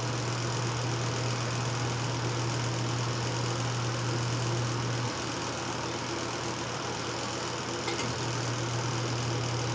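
Portable washing machine motor running with a steady hum, near the end of its timed cycle. The hum drops slightly about five seconds in, and there are a couple of faint clicks near the end.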